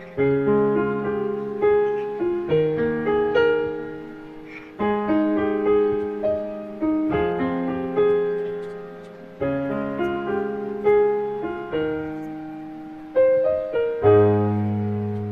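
Slow solo piano music: soft chords and melody notes that ring and fade, a new chord every second or two, with a deep low chord struck near the end.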